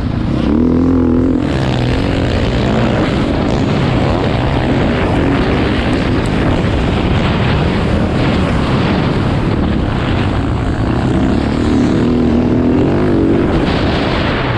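Motocross bike engines revving, their pitch rising and falling, over a steady loud rush of noise.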